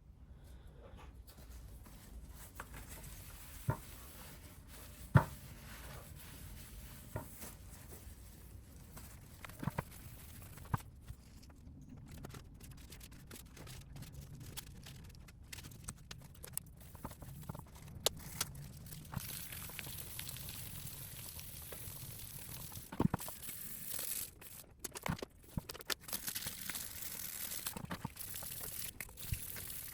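Scattered light clicks and knocks of plastic motorcycle headlight parts being handled and worked on. In the second half, a stretch of rustling and scraping joins them.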